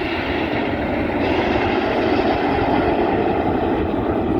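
Jet aircraft flying past, a steady rushing engine noise that grows louder about a second in.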